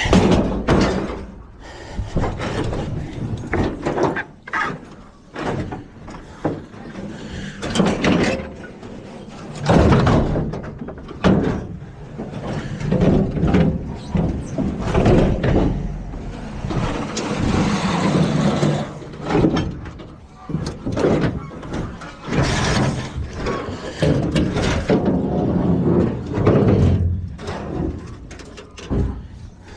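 Junk being loaded into a trailer: a long run of irregular bangs, thuds and clatters as items are thrown in and shoved into place.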